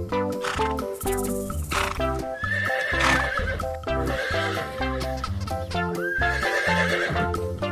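A horse neighing twice, over cheerful children's background music.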